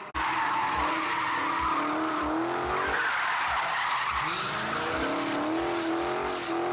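Car tyres squealing in a sustained skid, such as a burnout or drift, with a wavering, changing pitch over a continuous hiss, alongside irregular low thumps.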